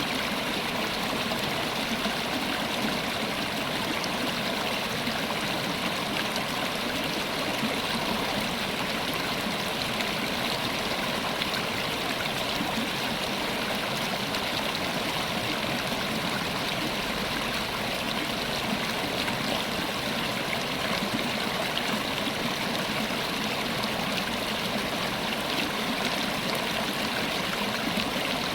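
River water flowing over rocks: a steady, even rush of running water with a trickling, babbling texture.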